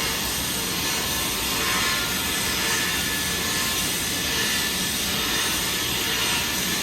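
Electric arc welding a 1-inch pipe socket joint: the arc runs with a steady hiss and crackle while the capping pass is laid.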